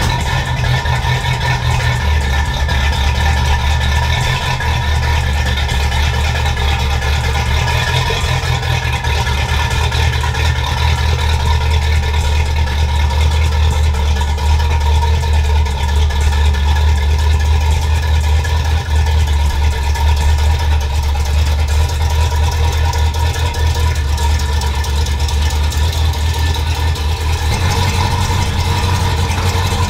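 Car engine and exhaust running at steady revs: an even, low drone with no change in pitch.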